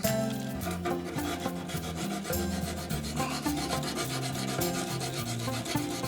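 320-grit sandpaper rubbing back and forth over a painted motorcycle fender, feathering out a small chip in the paint.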